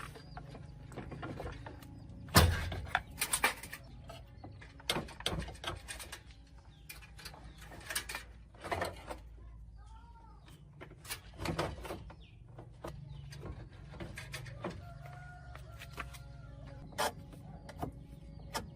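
Irregular knocks and clicks, the loudest about two seconds in, with a couple of faint chirps around the middle.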